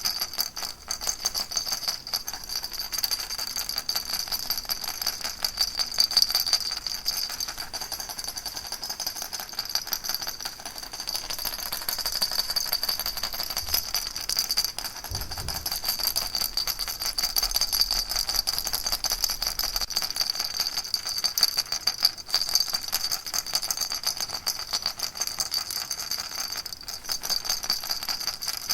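Baby rattle shaken steadily and without a break, a dense, even rattling with a bright jingly edge.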